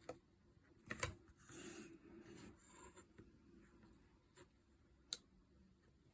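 Faint tapping and scratching on card as a dotted border is marked along a ruler. There is a brief rubbing swish about a second and a half in, and sharp clicks about a second in and again just after five seconds.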